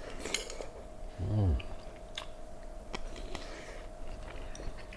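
A man chewing a mouthful of soft braised pork belly, with small wet mouth clicks and smacks, and a short hummed "mm" about a second and a half in.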